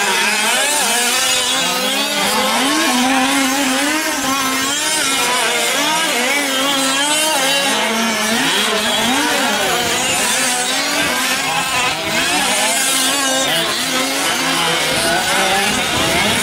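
Several 1/5-scale gas RC off-road trucks racing together, their small two-stroke engines revving up and backing off over and over. The overlapping engine notes rise and fall in pitch as the trucks accelerate and brake around the track.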